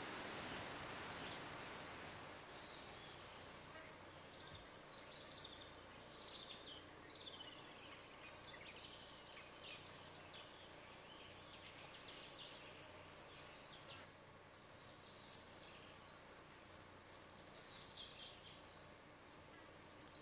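Faint garden ambience: small birds chirping and singing in short, quick phrases, busiest near the end, over a steady high-pitched hiss.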